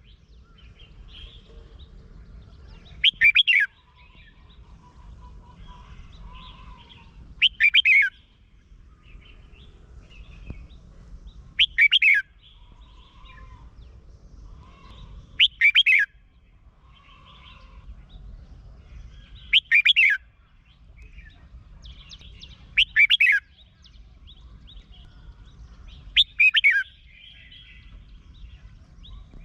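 Red-whiskered bulbul singing: a short, loud, bright song phrase repeated about every four seconds, seven times, with softer chirps in between.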